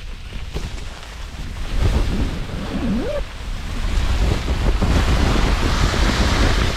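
Storm-force wind gusting against a snow-banked tent, with a deep rumble of wind on the microphone. The gusts swell about two seconds in and grow stronger from about four seconds in. A short rising squeak sounds about three seconds in.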